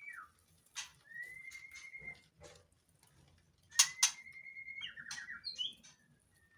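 White-rumped shama in breeding condition singing: long, clear, nearly level whistled notes of about a second each, repeated with pauses, and a quick rattling run of short notes in the middle. Sharp clicks come in among the notes, the loudest pair just before the rattle.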